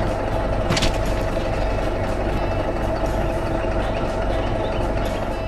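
Heavy construction-machine diesel engine running steadily, with one sharp click about a second in.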